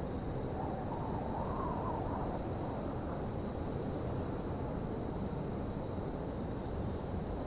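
Railyard ambience: a steady low rumble with a constant high-pitched whine over it. A brief wavering tone comes in the first two seconds, and a quick run of four faint high ticks about six seconds in.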